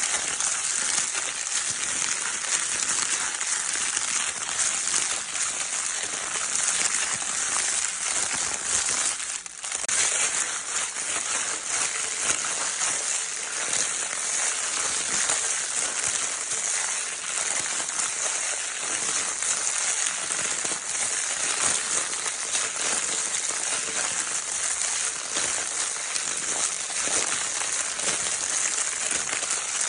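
Baby crinkle paper toy being crinkled without a break: a dense, steady crackling rustle, with a brief lull about nine seconds in.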